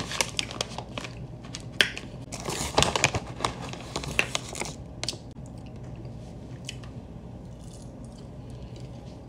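Close crunching, chewing and crinkling of a crunchy snack being eaten, a dense run of crackles for about the first five seconds, then only a few faint clicks over a low steady hum.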